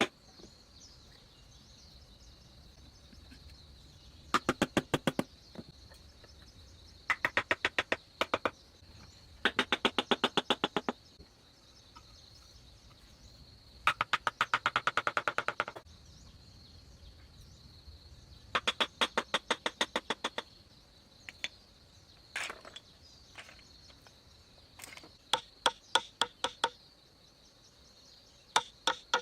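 Steady high-pitched insect drone, broken again and again by bursts of rapid sharp clicks, about ten a second, each burst lasting a second or two.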